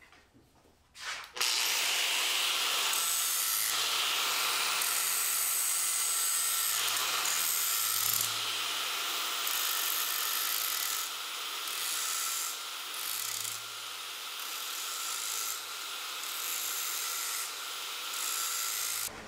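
An abrasive power tool, such as a grinder or sander, running steadily against a workpiece. It starts about a second and a half in and stops just before the end, with small rises and dips in level as the pressure changes.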